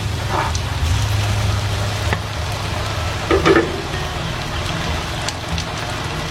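Food sizzling as it fries in a pan, with a brief louder clatter about three and a half seconds in, over background music.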